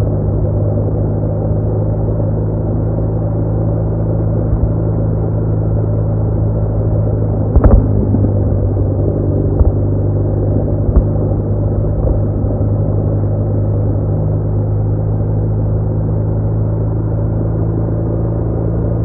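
BMW R1200R flat-twin engine running at a steady cruising speed under wind noise, with one sharp knock about eight seconds in.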